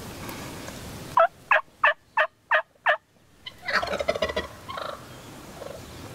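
A run of six loud, evenly spaced turkey yelps, then a wild turkey tom gobbles a few seconds in, followed by a few softer calls.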